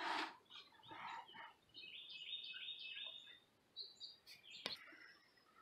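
Faint bird song: a quick run of short high chirps about two seconds in, with a higher note after it. Soft rustling of felt carpet underlayment being handled in a flower pot comes in the first second, and a single sharp click sounds near the end.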